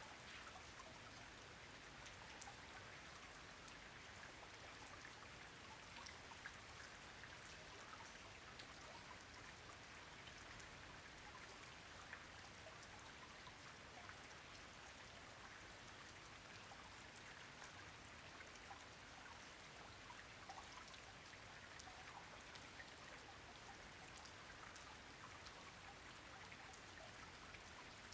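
Faint, steady rain falling on a pond: an even hiss dotted with many small, irregular drop ticks.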